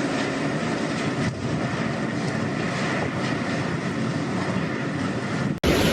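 Steady rushing roar of typhoon wind and heavy rain, broken off suddenly near the end.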